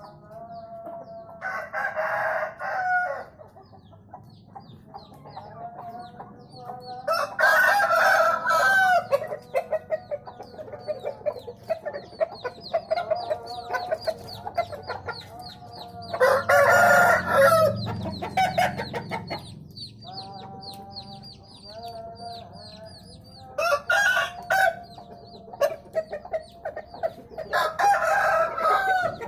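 Game-fowl roosters crowing about five times, each crow lasting a second or two. Hens cluck softly between the crows, and faint high chirps repeat throughout.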